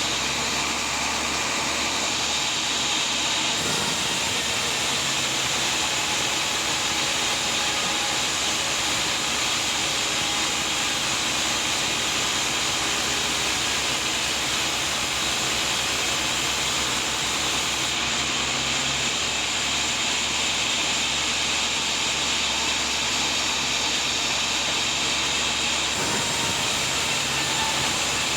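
Sawmill saw running steadily on a teak log, a continuous mechanical whine and rush with a low hum that shifts about three seconds in and again near the end.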